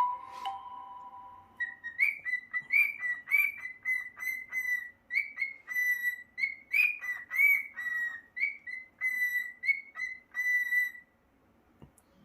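Cockatiel whistling a tune: a held note, then a run of short whistled notes, about two a second, each flicking up at its start. The whistling stops about a second before the end.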